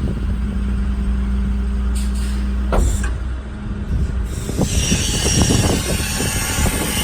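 The 2008 Ford F550's 6.4-litre Power Stroke V8 diesel running steadily at idle. A single sharp clunk comes about three seconds in, and a steady hiss starts about four seconds in and carries on.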